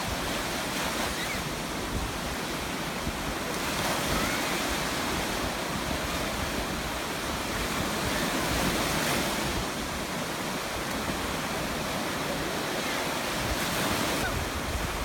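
Storm surf: rough sea waves breaking and washing continuously, with wind, swelling louder a few seconds in and again near the middle.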